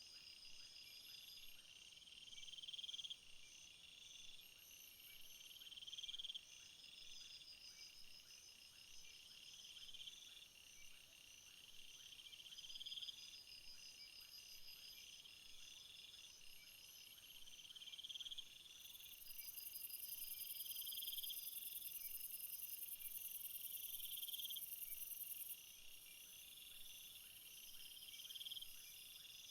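Chorus of summer insects, crickets among them, chirping: one repeats a phrase about every three and a half seconds that swells and then cuts off, over steady higher trilling, and a very high-pitched buzz joins for several seconds in the second half.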